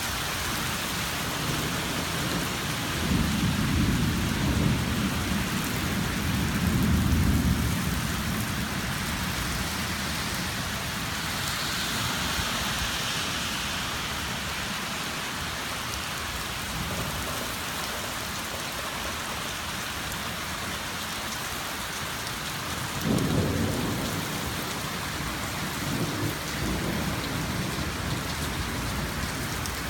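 Rain falling steadily during a thunderstorm, with thunder: a long low rumble from about 3 to 8 seconds in, then a sharper clap about 23 seconds in and a weaker one shortly after.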